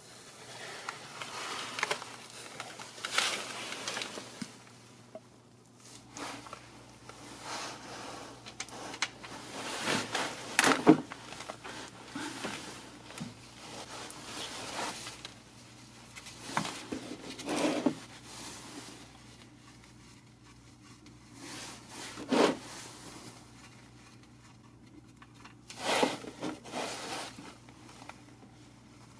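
Intermittent handling noises: scrapes, rustles and clicks, with several louder knocks spread through.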